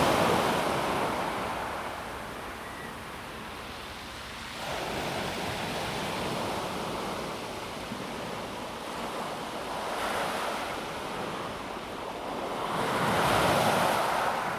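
Calm sea waves washing over a pebble beach. The surf swells and ebbs in slow surges, loudest at the start and again as a wave breaks just before the end.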